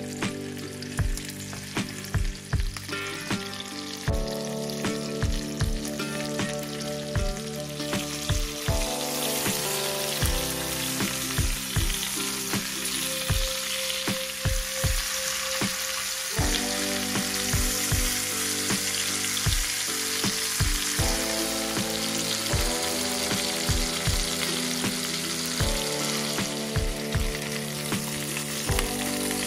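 Chicken thighs sizzling and spitting in hot butter in a frying pan, the sizzle growing louder about a third of the way in. Background music plays underneath.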